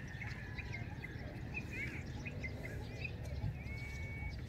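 Small birds chirping in short, quick calls, with a few fast sweeping notes about two seconds in and one held whistle near the end, over a steady low rumble.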